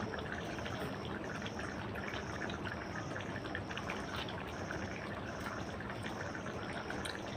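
A steady watery rushing with many small crackles and clicks.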